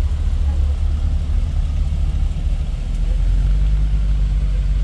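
Car engines idling with a steady low rumble, which deepens a little about three seconds in.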